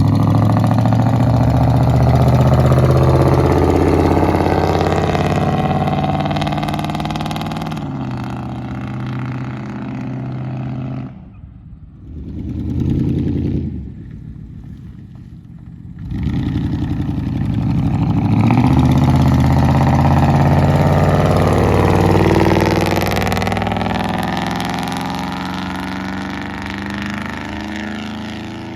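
Ford F-150's 5.4 L Triton V8 running with both catalytic converters removed, loud and bellowing as the truck drives by under throttle, its pitch rising and falling. The sound nearly cuts out about 11 seconds in, comes back loud about 16 seconds in, and fades away near the end.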